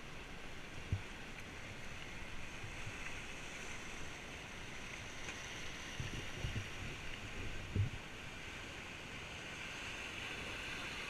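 River water rushing steadily, with a few low thumps about a second in and again between six and eight seconds.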